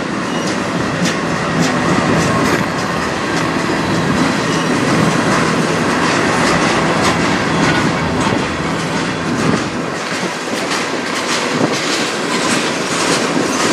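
Freight train of tank cars rolling past close by: a steady rumble of steel wheels on rail, broken by frequent irregular clicks and clacks as the wheels cross rail joints.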